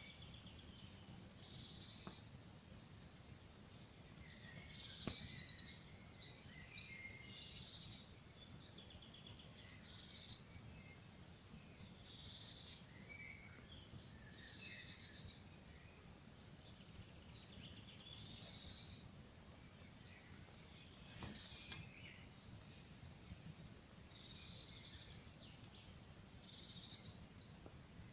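Several songbirds singing and chirping without a break, loudest about five seconds in, over a faint wood campfire with a few sharp crackles.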